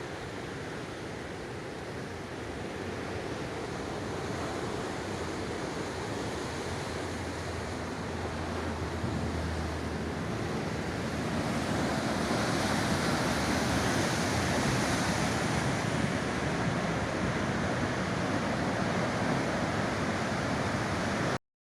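Rough sea surf washing against the shore, mixed with wind: a steady rushing that grows louder about halfway through, then cuts off abruptly near the end.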